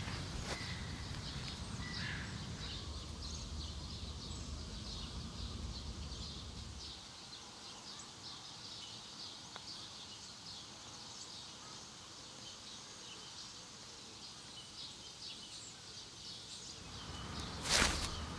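Small birds chirping and calling at a distance, many short high notes scattered throughout, over a low rumble that dies away about seven seconds in. One short, loud thump near the end.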